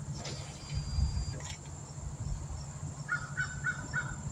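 A bird calling outdoors: a rapid run of short, pitched calls, three or four a second, starts about three seconds in. Under it runs a steady low hum, with a dull thump about a second in.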